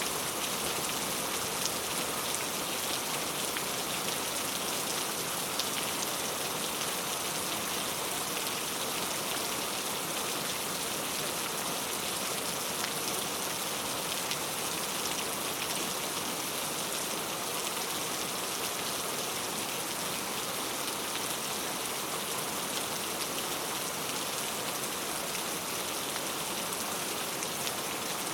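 Steady rain falling and pattering on a surface, an even hiss with no thunder or other events.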